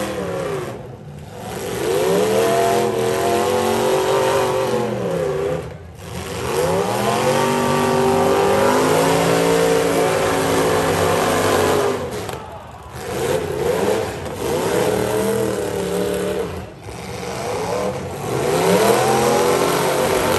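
Demolition derby cars' engines revving hard, the pitch climbing as they accelerate and falling as they back off, again and again, with brief lulls several times.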